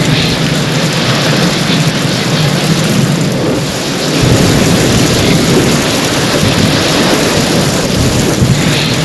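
Heavy rain falling steadily in a thunderstorm, with a low rumble of thunder coming in about four seconds in.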